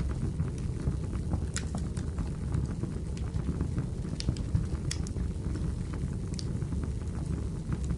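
Wood fire burning in a fireplace: a steady low rumble with sporadic sharp crackles and pops from the burning firewood, the clearest about one and a half, four, five and six and a half seconds in.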